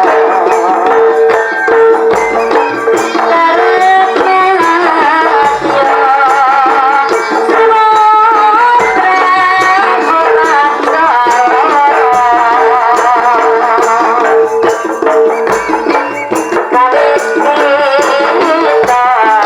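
Live jaranan music from an East Javanese ensemble: a wavering, vibrato-laden melody line over a steady held tone, with low drum or gong strokes every couple of seconds.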